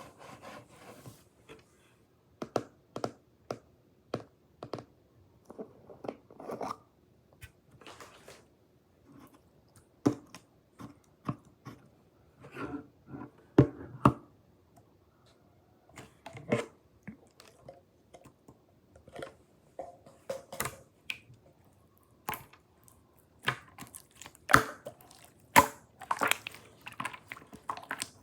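Slime being squeezed, stretched and poked by hand, giving irregular sticky clicks and pops that come thicker in the last few seconds.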